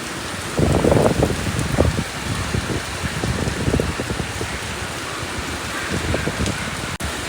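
Typhoon rain and wind: a steady hiss of heavy rain with irregular gusts rumbling against the microphone, the strongest about a second in.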